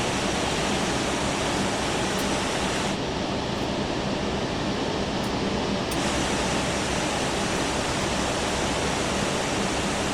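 Steady rushing noise in an Airbus A380 cockpit taxiing to the ramp, with no distinct events. It sounds a little duller from about three seconds in until about six seconds in.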